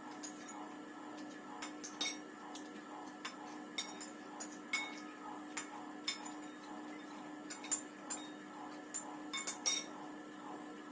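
Spoons and cutlery clinking against plates and dishes while eating, a dozen or so irregular sharp clinks and clicks over a low steady hum.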